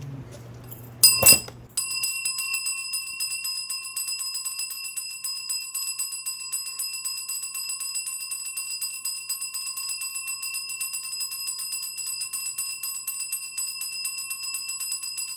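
Korean shaman's ritual bell cluster shaken rapidly and without a break, a dense jingling over a steady ring, starting about two seconds in after a short loud clatter. Bells of this kind are shaken during a spirit divination.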